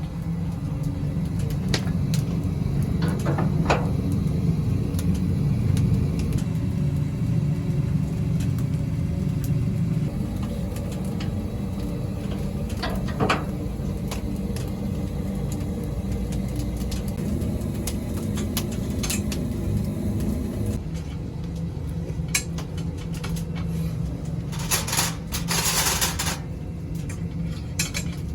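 Steady low mechanical rumble with a faint hum, its tone shifting partway through, with scattered light clicks and a brief hiss near the end.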